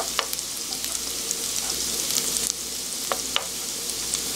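Small dried anchovies sizzling as they toast in oil in a nonstick frying pan, stirred with a wooden spoon. A steady frying hiss full of tiny crackles, with a few short strokes of the spoon against the pan.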